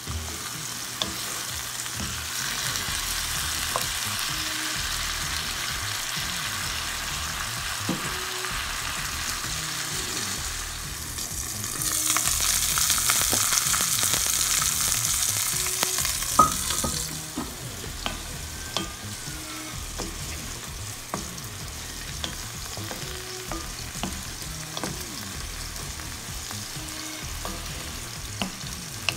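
Food frying in hot oil in a cast-iron skillet, a steady sizzle, louder for several seconds around the middle while a butterflied milkfish fries. Then lighter sizzling as mixed vegetables are stirred, with frequent small scrapes and taps of a wooden spatula against the pan.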